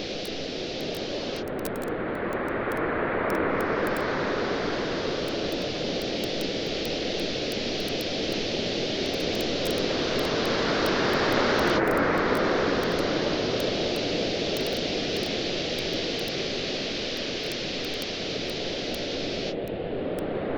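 Ocean waves washing onto a beach, the surf swelling and easing about every eight or nine seconds, with faint sharp crackles from a wood campfire over it.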